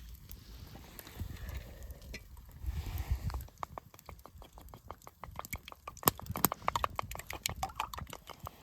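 A spatula stirring and scraping food in a carbon steel frying pan, after a low rumble: a fast, uneven run of clicks and scrapes from about three and a half seconds in.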